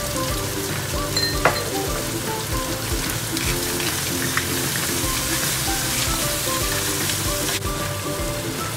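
Crab pieces sizzling as they fry in a hot wok, under background music with a steady beat. One sharp clink comes about one and a half seconds in.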